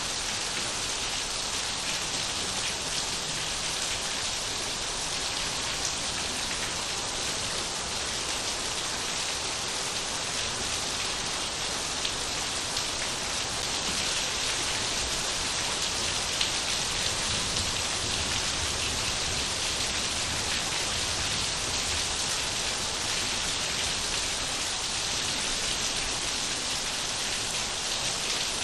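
Steady rain falling, an even hiss with scattered individual drop impacts.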